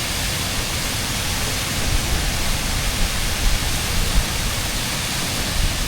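Steady rushing of water pouring over the rock ledge of Jagala Waterfall, an 8-metre drop carrying a shallow flow.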